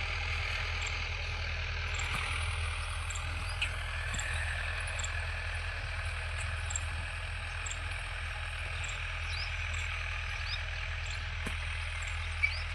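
Tractor engine running steadily with a constant low hum, faint high ticks about once a second over it, and one short sharp click near the end.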